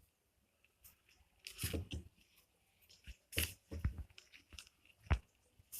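Handling noise from in-ear earphones being picked up and fitted: scattered short rustles and crunchy rubs with a few soft knocks, and a sharp click about five seconds in.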